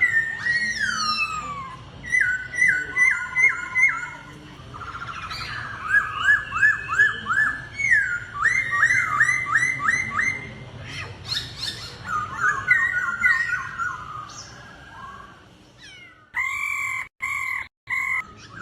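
Laughingthrush (khướu) singing: rapid runs of repeated whistled notes, each sliding up or down, mixed with higher chirps. Near the end the sound cuts out abruptly twice.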